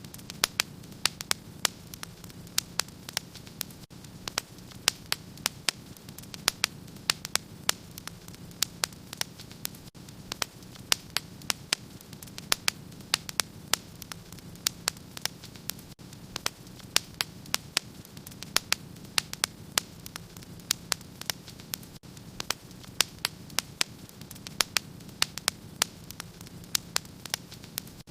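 Wood fire crackling: dense, irregular sharp pops and snaps over a steady low rushing of the flames.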